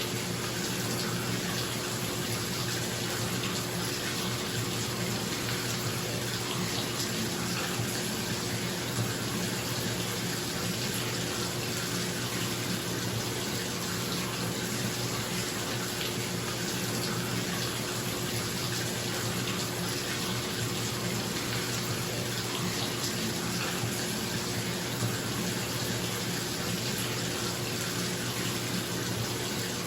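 Bathtub tap running steadily, water pouring into the tub, with a bathroom exhaust fan's steady hum underneath.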